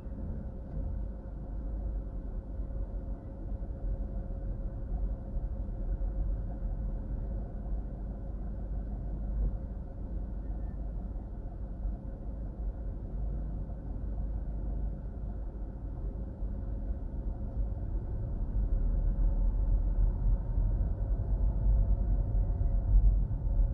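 Car driving, heard from inside the cabin: a steady low rumble of road and engine noise with a faint constant hum, growing louder near the end.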